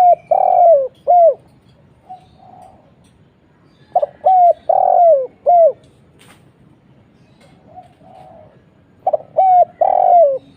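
Spotted dove (tekukur) cooing, a loud, deep call given about every five seconds. Each phrase is two short coos, a longer coo falling in pitch, and a last short coo.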